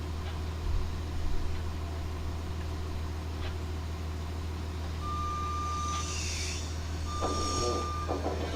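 A vehicle engine idling steadily while a reversing alarm sounds two long, single-pitched beeps in the second half.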